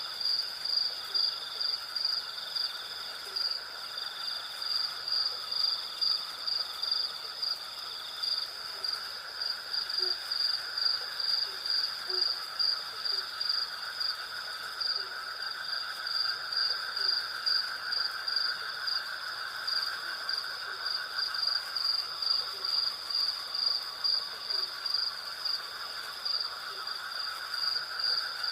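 Night chorus of crickets and other insects: a high trill pulsing about twice a second over a steady lower buzzing, with faint short low calls now and then.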